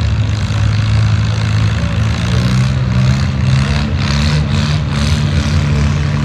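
Antique farm tractor engine running, revving up about two seconds in and holding at higher revs.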